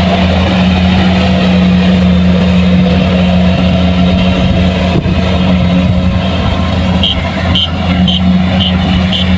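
Kubota rice combine harvester's diesel engine running steadily at working speed, a constant loud hum. A series of short high pips sounds over it near the end.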